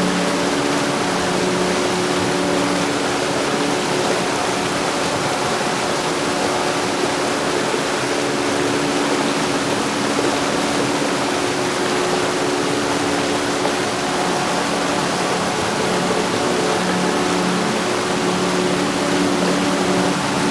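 Heavy rain falling steadily, an even rushing hiss, with faint steady low tones running underneath.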